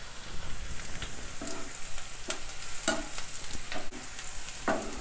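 Chopped onions sizzling in hot mustard oil in a kadhai, being fried on high heat until golden. A spatula knocks and scrapes against the pan about five times as they are stirred.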